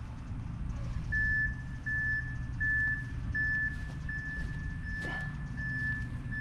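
A vehicle's reversing alarm beeping at one steady pitch, about four beeps every three seconds, starting about a second in, over a low steady rumble.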